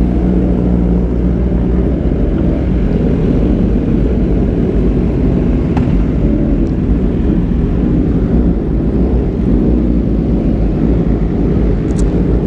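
Motorcycle engine running steadily while being ridden: a loud, even, low drone with no breaks.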